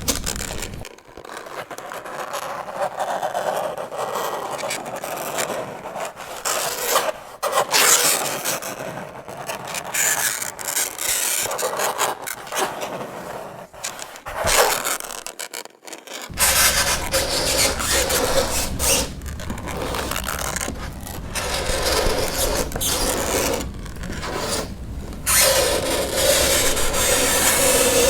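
Fingernails scratching across a chalkboard in a continuing series of rasping strokes with short gaps between them; some strokes carry a held tone.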